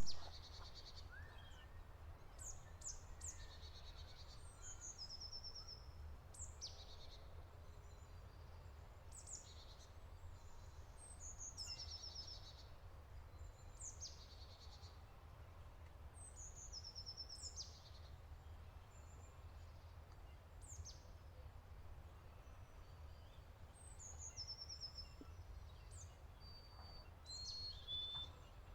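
Faint bird song: short, high phrases repeated every few seconds, each ending in a quick trill, over a steady low rumble.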